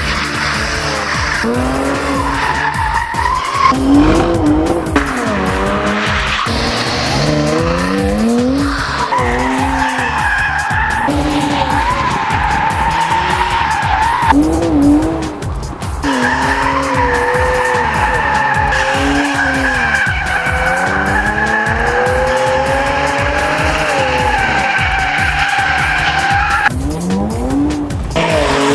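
Jaguar XE's supercharged V6 revving up and down over and over while the tyres squeal steadily through long drifts. The squeal dips briefly about halfway through.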